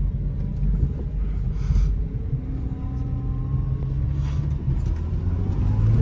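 Car engine and road rumble heard from inside the cabin while driving, the engine note rising gradually for a couple of seconds in the middle as the car gathers speed.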